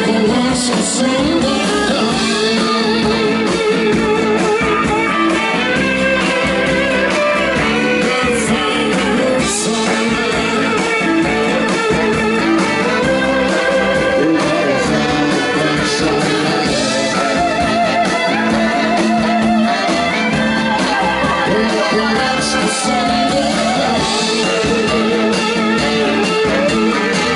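Live blues-rock band playing, loud and steady, with a wavering melody line over the guitar and band accompaniment.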